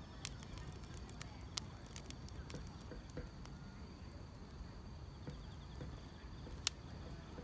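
Wood fire crackling with a low steady rumble and scattered sharp pops, the loudest near the end. Insects trill faintly and steadily underneath.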